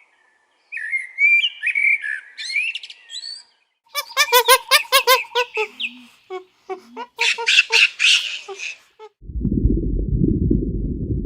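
Bird calls: warbling chirps, then a quick series of squawking calls. About nine seconds in they give way to a steady low rumbling noise.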